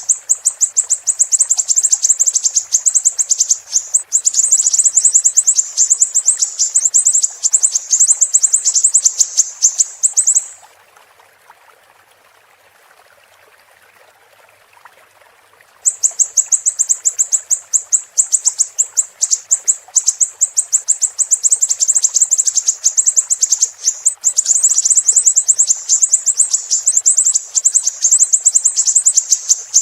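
Siri-siri songbird singing a long, dense run of very fast, high-pitched chirps. It breaks off for about five seconds about a third of the way in, then starts again. A faint steady sound of running water lies underneath.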